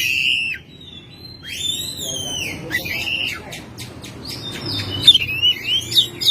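Oriental magpie-robin (kacer) singing: arching whistled phrases, a run of short clicking notes midway, then quick varied notes near the end.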